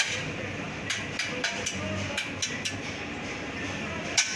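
Irregular light taps and knocks of a tool on metal, about ten sharp strikes, some with a short ring, over workshop background noise and faint voices.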